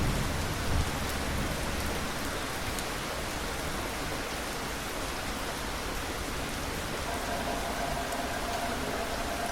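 Steady heavy rain falling on a surface. A low rumble of thunder dies away in the first two seconds, and a faint steady tone joins about seven seconds in.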